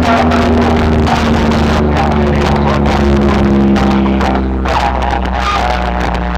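Loud dance music with heavy, steady bass, blasted through a large DJ speaker-box sound system.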